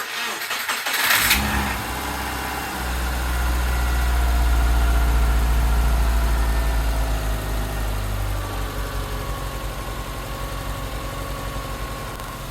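2002 Subaru Forester's SOHC EJ25 flat-four cranking on the starter for about a second, then catching and running at a fast idle that slowly settles lower. This is the engine's start after its head gasket replacement.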